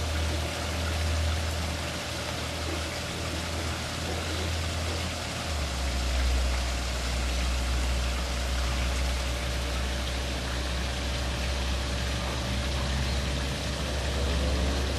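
Running water splashing steadily over a low rumble that drops in pitch about five and a half seconds in.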